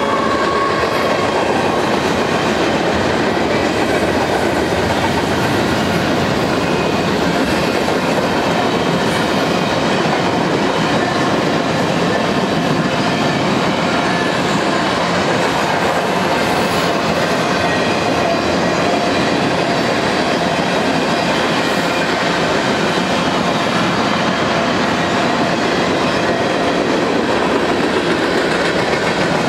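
Freight cars of a long mixed Union Pacific freight train rolling past close by: a steady rumble and clatter of steel wheels on rail, with faint thin wheel squeal at times.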